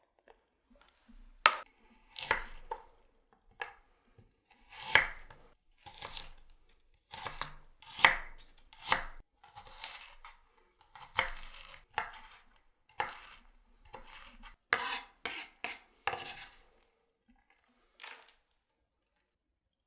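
Kitchen knife chopping vegetables on a cutting board, in separate sharp strokes about once a second with a quicker run of cuts near the end.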